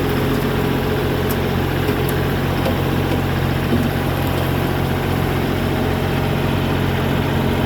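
A heavy machine's engine running steadily at an even pitch, with no revving.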